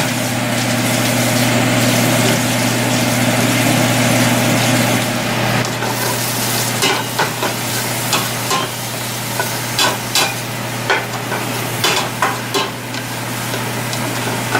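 Chopped onion and garlic sizzling in hot oil in a pot, stirred with a utensil that clicks and scrapes against the pot repeatedly through the second half. A steady low hum runs underneath.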